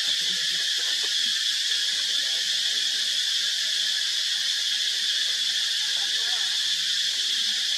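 Steady, unbroken high-pitched drone of an insect chorus, even in level throughout.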